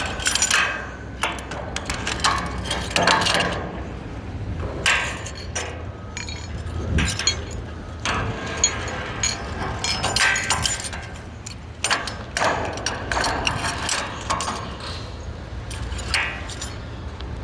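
Irregular metallic clinks and knocks from steel bolts and ironworking tools being handled on structural steel, over a steady low rumble.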